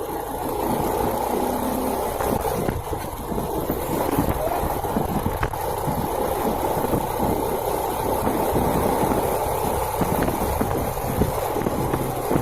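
Small single-cylinder motorcycle engine of an SYM RV1-2 110cc running steadily with a low rumble.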